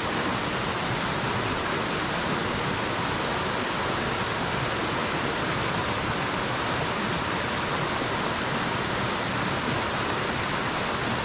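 Water of a jungle waterfall cascading in a steady, unbroken rush.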